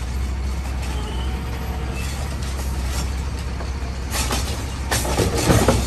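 Garbage truck engine running with a steady low drone, with several sharp clatters and knocks toward the end.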